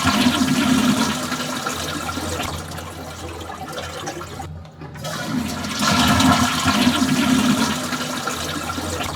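Toilet flushing: a loud rush of water that tails off. It is cut off abruptly just before five seconds in, and a second flush starts, swells and fades again.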